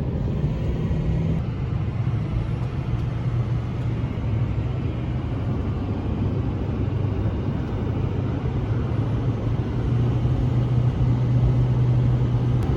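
Pickup truck with a camper driving along a highway: a steady low engine drone over road rumble, getting a little louder about ten seconds in.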